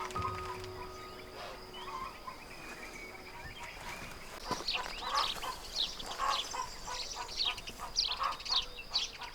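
Small birds chirping, a quick run of short calls starting about four and a half seconds in, after a couple of faint held tones that fade out in the first two seconds.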